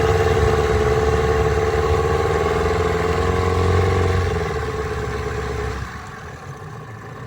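1995 15 hp Evinrude two-stroke twin outboard running in reverse with the throttle open, then easing off and dropping back to a quieter idle a little before six seconds in.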